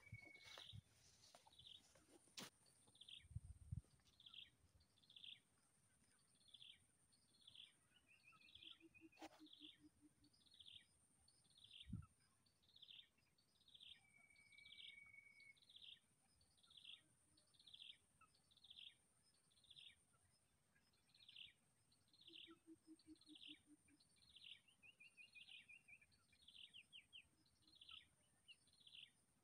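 Faint bird call repeated over and over, a short downward chirp about one and a half times a second, with a few brief trills mixed in.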